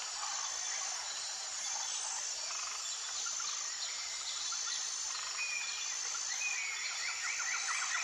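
Wild nature ambience: a steady high-pitched insect drone with thin repeating whistles, and several bouts of rapid pulsed chirping calls from small animals.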